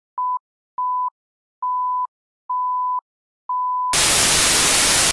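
An intro sound effect: five pure beeps at one pitch, each a little longer than the last, then a loud burst of hiss like TV static that cuts off suddenly.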